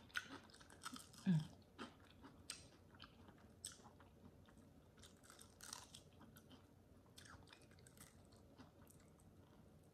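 Close-miked chewing and crunching of crispy fried chicken: scattered soft crunches and mouth clicks, with one louder, short low mouth sound a little over a second in.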